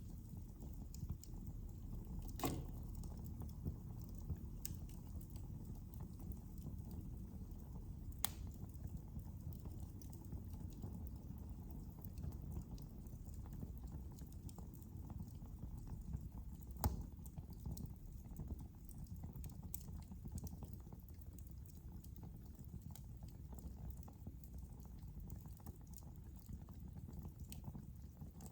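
Wood fire burning in a fireplace: a low steady rumble with scattered soft crackles, and sharper pops about two and a half, eight and seventeen seconds in.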